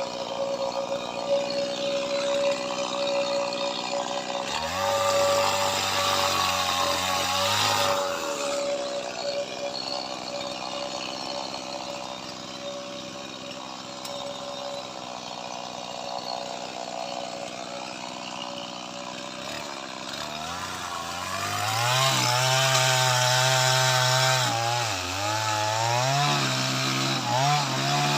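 Small Stihl MS two-stroke chainsaw running steadily, then revved up for a few seconds about 5 s in and again from about 21 s on. During the revs the engine pitch sags and rises as the chain cuts into lamtoro wood.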